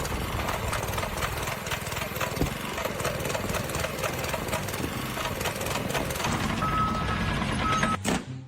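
A machine running with a rapid, rattling beat that cuts off suddenly near the end.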